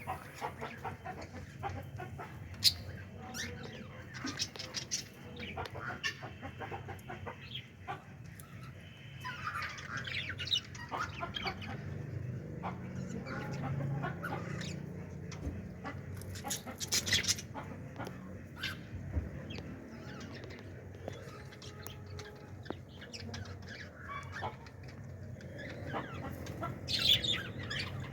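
Budgerigars chattering with many short, sharp chirps and squawks, in louder clusters now and then.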